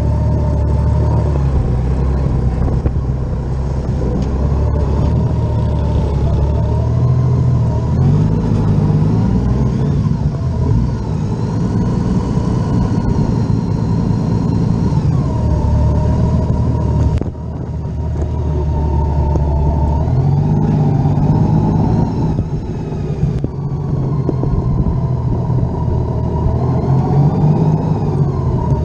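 Honda Valkyrie's flat-six engine running in stop-and-go city traffic, its pitch rising each time the bike pulls away, about three times. The level dips suddenly about two thirds of the way through.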